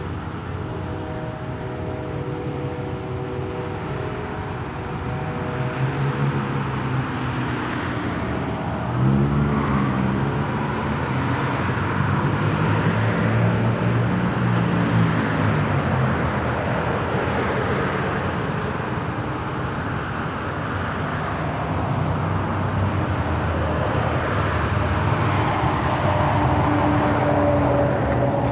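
Car exhaust at idle, then revved repeatedly a few times, the engine note rising and falling, before settling back to a steady run.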